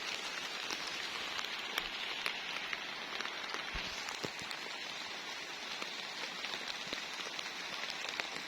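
Steady rain falling on the garden, an even hiss with many small drop ticks scattered through it.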